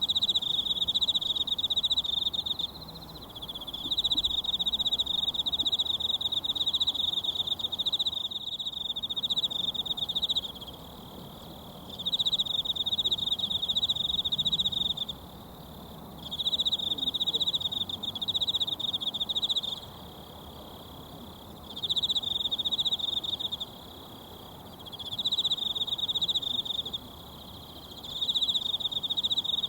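An insect trilling loudly in repeated bouts of a few seconds with short pauses between them, over the steady rushing of a mountain stream.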